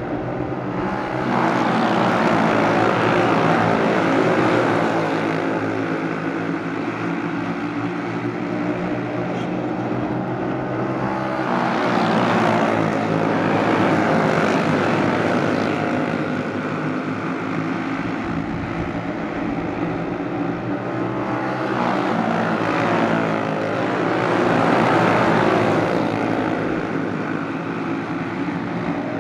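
A pack of racing karts with Briggs & Stratton Animal single-cylinder four-stroke engines running hard as they lap. Their combined buzz swells louder as the pack comes by, roughly every ten seconds, three times.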